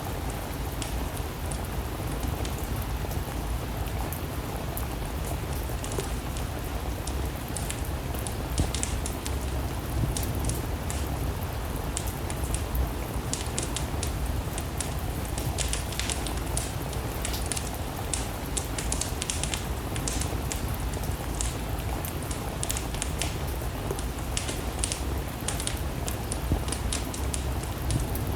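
Steady rain with a wood fire crackling, sharp pops scattered irregularly over the even hiss.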